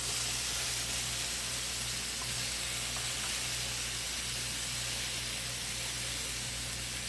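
Chicken meatballs in sriracha sauce sizzling steadily in a pan on the stove, as an even hiss with a low steady hum underneath.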